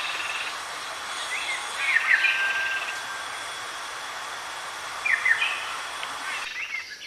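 Outdoor natural ambience: a steady high hiss like insects, with three short chirping animal calls a few seconds apart. The hiss drops away abruptly near the end.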